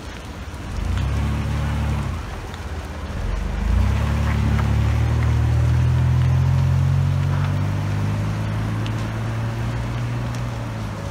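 A motor vehicle's engine running close by, a low steady hum that starts about a second in, drops away briefly, then comes back louder from about four seconds in and holds.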